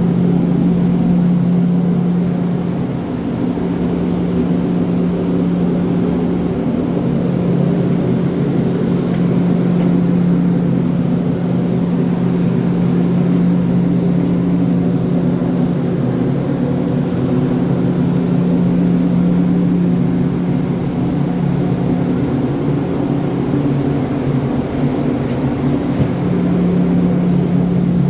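An engine or motor running at a steady speed: a constant droning hum that wavers slightly about three-quarters of the way through.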